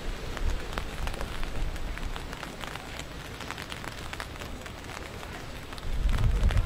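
Rain falling, with many sharp drops ticking close to the microphone. A low rumble comes in near the end.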